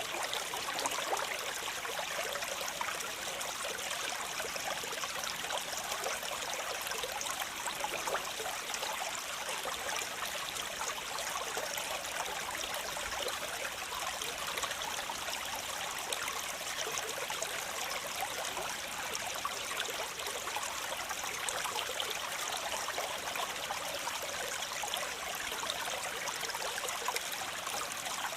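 Waterfall: falling water splashing in a steady, unbroken rush, mostly light and hissy with little deep rumble.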